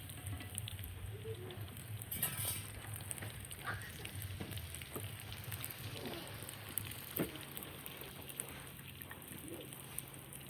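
Food sizzling in a cooking pot, with a steady hiss, scattered small clicks and a brief louder scrape about two seconds in, as of stirring.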